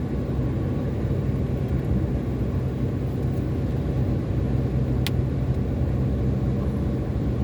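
A car driving along, with steady engine and road rumble. There is a single sharp click about five seconds in.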